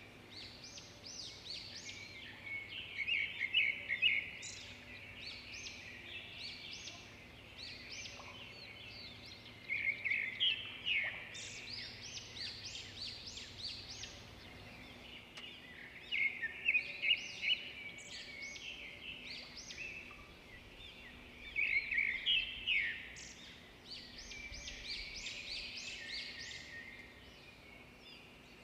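A bird chirping in bursts of rapid, high notes that come back about every six seconds, over a faint steady background hiss.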